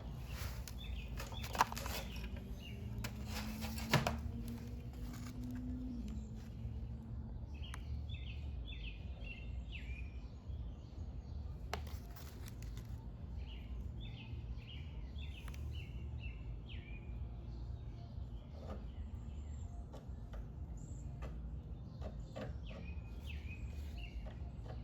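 A small bird chirping in three short runs of quick repeated notes over a steady low hum, with a couple of sharp clicks in the first few seconds.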